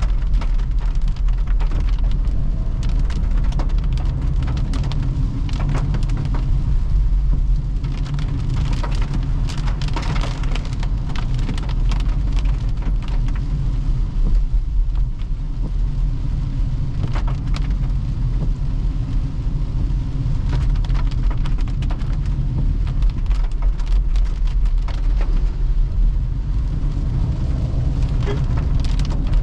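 Rain hitting a moving car, many separate drop hits over a steady low rumble of tyres on the wet road.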